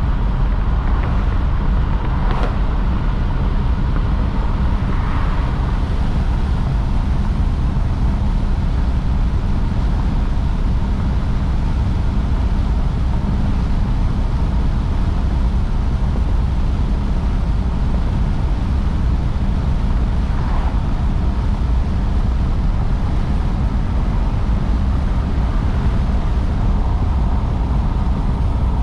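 Car being driven at a steady speed: constant low engine and road rumble that holds the same level throughout, with a faint click about two and a half seconds in.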